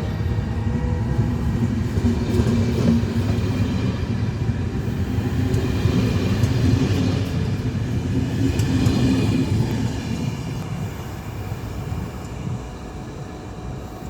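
Passenger train pulling out of a station: a steady rumble of the train with a low hum over it. It fades as the train draws away over the last few seconds.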